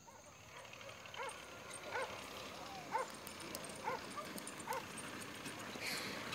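A dog barking faintly, about five short barks roughly a second apart.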